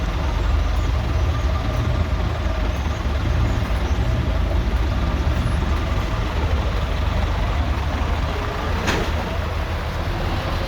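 Heavy trucks' diesel engines running with a steady low rumble. A brief sharp burst of noise about nine seconds in.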